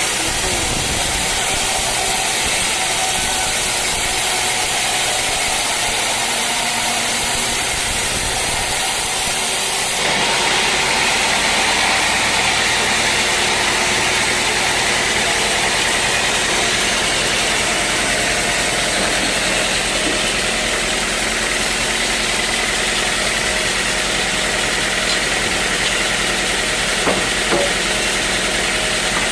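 Sawmill machinery running steadily, with a continuous engine-like hum; its high hiss drops away about ten seconds in.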